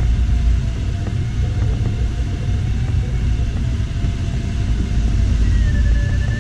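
Steady low rumble of air rushing over an LS4 glider's canopy and fuselage, heard from inside the cockpit, with a faint thin tone that wavers slowly in pitch; a second, higher tone joins it near the end.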